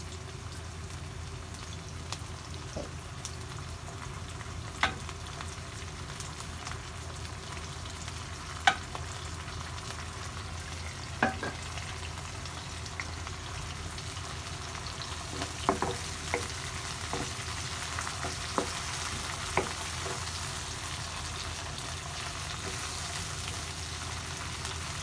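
Canned tuna and sliced red onions sizzling in oil in a frying pan as they are stirred with a wooden spatula, the sizzle growing louder about halfway through. A few sharp knocks stand out over the sizzle.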